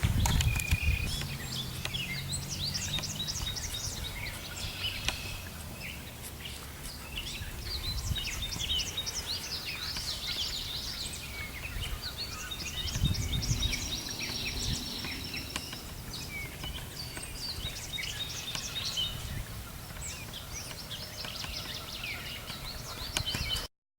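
Songbirds singing in a dawn chorus, many short overlapping chirps and trills, with a low rumble on the microphone that swells near the start and about halfway through. The sound cuts off abruptly just before the end.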